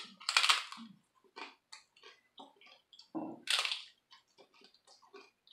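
A crisp homemade taco shell being bitten into and chewed close to the microphone. There are two loud crunches, one just after the start and another about three and a half seconds in, with smaller crackling chews between them.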